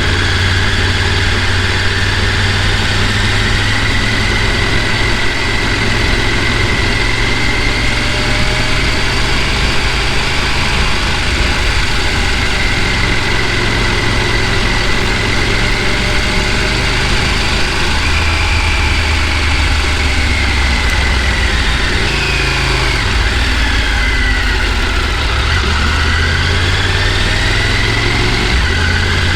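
A vehicle's engine running steadily, with a faint whine that drifts slowly in pitch.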